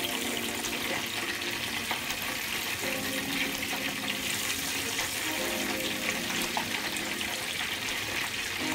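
Spoonfuls of cornbread batter frying in hot vegetable oil in a skillet: a steady sizzling hiss with small pops. Faint low held tones sound in the background.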